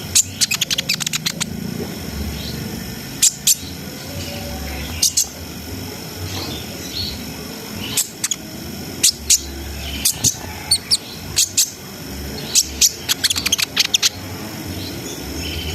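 Kolibri ninja (konin) sunbird singing: sharp, high chipping notes and quick rattling runs of notes in bursts, with short pauses between.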